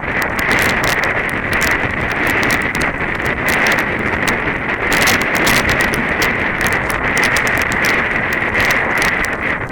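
Strong wind buffeting the microphone, with quick irregular footfalls of running feet on the path.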